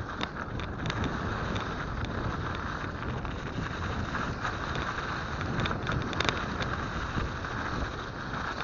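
Steady wind rush on an action camera's microphone while riding a mountain bike on a snowy trail, with scattered clicks and rattles from the bike.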